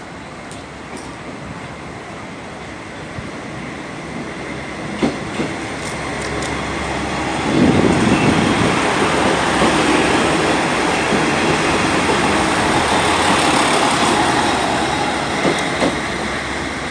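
A train moving past at a station platform: wheel and running noise swells to its loudest about halfway through, holds, then eases off near the end, with a few sharp clicks of wheels over rail joints.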